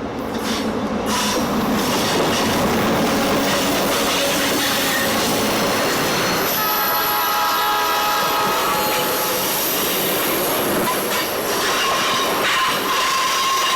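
Royal Canadian Pacific passenger train running on the rails, with a steady rumble of wheel and rail noise. About halfway through, a cluster of steady tones rises over the rumble for a few seconds and then fades.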